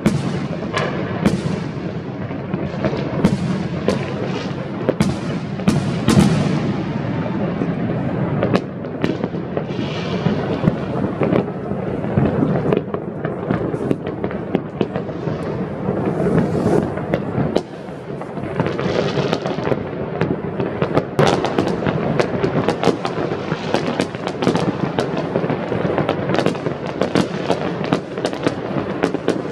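Fireworks going off densely: a continuous rumble of overlapping bursts with frequent sharp bangs and crackles on top, several a second.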